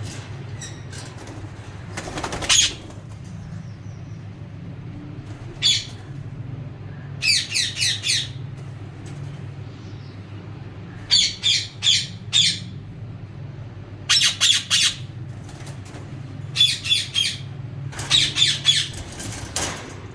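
Birds giving harsh, pitched calls in quick runs of two to five notes, a run every few seconds, over a steady low hum.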